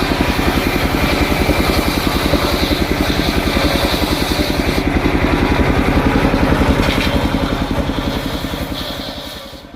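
Engine of a homemade circular saw rig running steadily with an even, rapid pulse, fading away over the last second or so.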